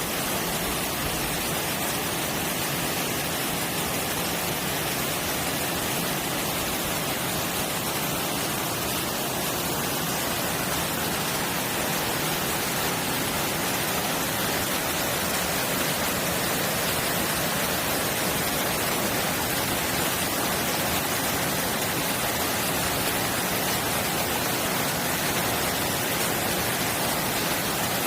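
Mountain stream running full after rain, a steady, even rush of water.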